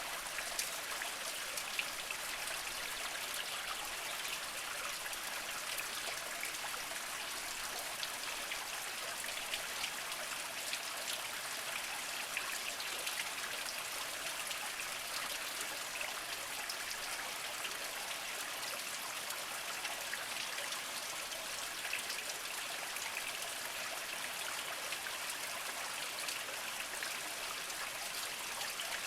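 A small mountain spring trickling steadily over mossy rocks, with many small droplet splashes.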